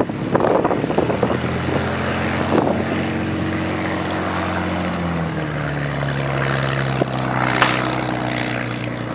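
A World War II fighter's V12 piston engine running at low power as the aircraft taxis past, a steady drone whose pitch steps down about five seconds in.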